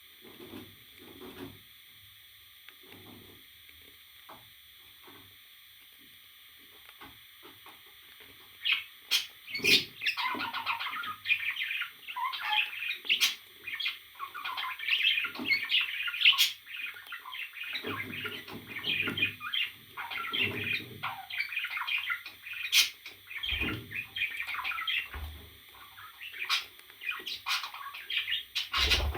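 A parrot chattering and chirping in rapid, busy calls mixed with sharp clicks. It starts about a third of the way in, after a quieter stretch of soft low sounds.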